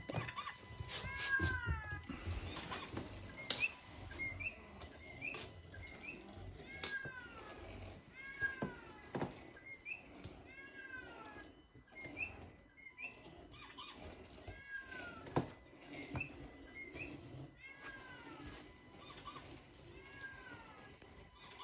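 Devon Rex cat giving short, falling meows over and over, about one a second, the insistent calling of a cat that has caught a bird.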